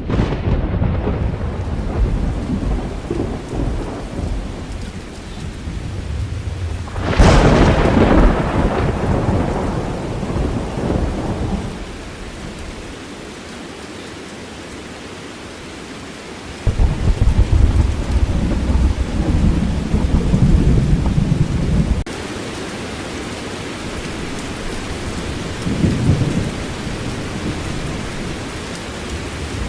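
A storm: rain falling and wind buffeting in gusts, a deep rumble throughout. The loudest swell comes about seven seconds in and fades over a few seconds. A quieter lull follows, then the rumble surges again.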